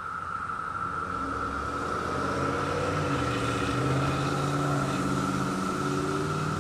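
Periodical cicadas chorusing in a steady, unbroken drone. A car's engine is heard passing on the road, growing louder from about a second in and fading near the end.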